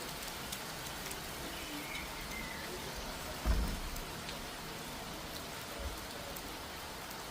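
Steady rain falling and pattering on surfaces. A brief low thump about halfway through is the loudest moment, with a smaller one shortly after.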